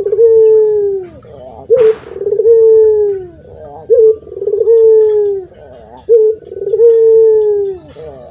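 Local puter dove cooing very loudly, over and over: each call is a short sharp note followed by a long, slightly falling coo, about every two seconds. There is a brief noisy crackle about two seconds in.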